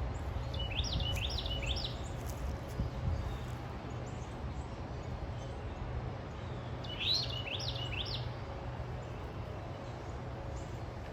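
A songbird sings a short phrase of about four quick rising notes twice, the second about six seconds after the first, over a steady low background hum.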